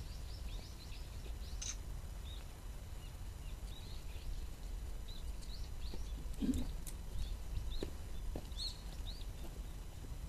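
Small birds chirping, many short high calls scattered throughout, over a steady low outdoor rumble. A brief low sound stands out about six and a half seconds in.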